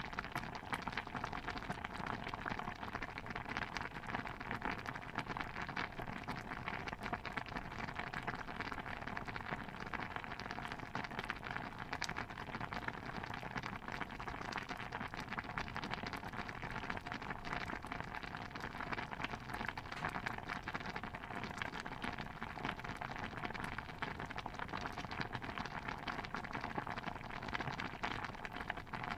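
Pot of stew bubbling at a steady boil: a dense, continuous patter of small pops with no pauses.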